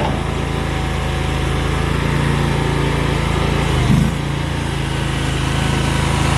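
Compact skid steer loader's engine running steadily, with a brief surge in level about four seconds in.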